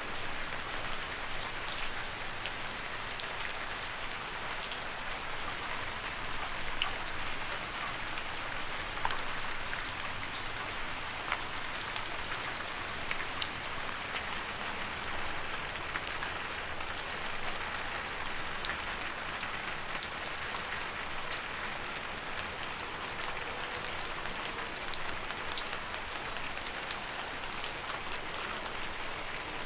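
Steady rain falling on a surface, an even hiss with many sharp individual drop ticks scattered through it.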